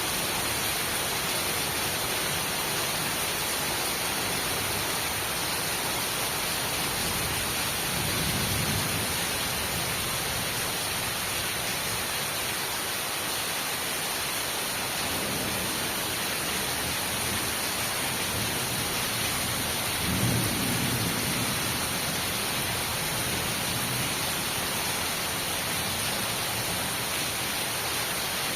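Heavy rain during a thunderstorm, falling with a steady hiss. Low rumbles of thunder swell up three times; the clearest comes about two-thirds of the way through.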